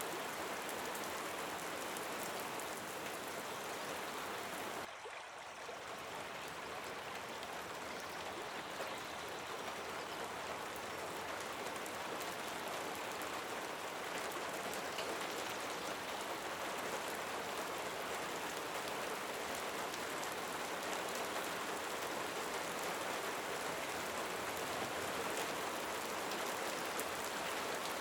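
Steady rain falling, a continuous patter of drops that dips briefly in level about five seconds in.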